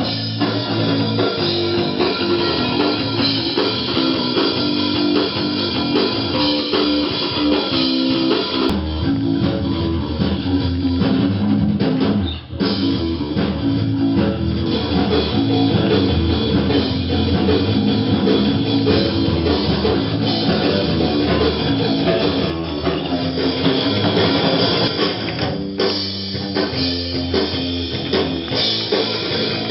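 Rock music with guitars and a drum kit playing steadily, with a brief break about twelve seconds in.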